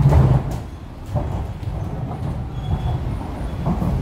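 Interior of an MTR R-Train electric multiple unit running on the line: a steady low rumble of wheels and running gear, with a few short sharp clacks from the track.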